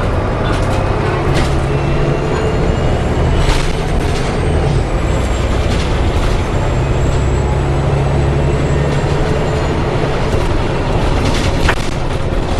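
Volvo B7TL double-decker bus under way, heard from inside: a steady low engine drone and road rumble that swells twice. A thin high whine runs through the middle, the strange howling noise this bus makes.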